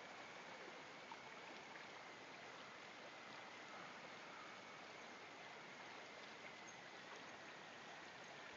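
Near silence: a steady faint hiss with a thin, high whine that sinks slightly in pitch, and a few tiny ticks.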